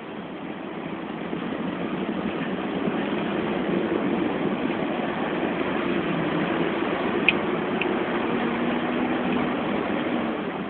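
Hong Kong tram running, a steady rumble of motor and wheel noise with a faint low hum, growing louder over the first few seconds. A sharp click comes about seven seconds in.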